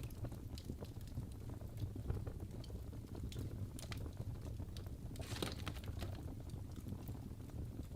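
Wood fire crackling in a fireplace: a steady low rumble of the flames with scattered sharp pops and snaps, a louder cluster of pops about five and a half seconds in.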